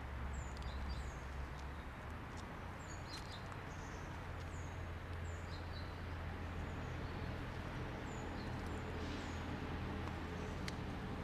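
Small birds giving short, high chirps again and again over a steady low rumble and hiss, with a few faint clicks.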